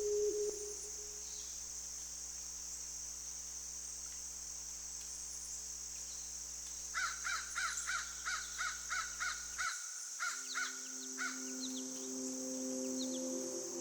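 A crow cawing in a rapid run of about a dozen harsh caws, roughly three a second, over a steady high-pitched forest ambience.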